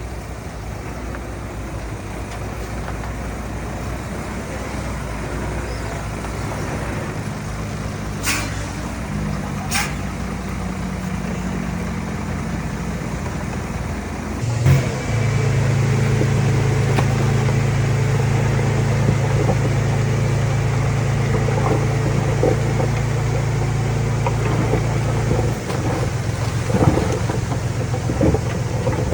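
Diesel engine of heavy earthmoving equipment running steadily, going louder under load about halfway through, with a few sharp clicks and metallic knocks.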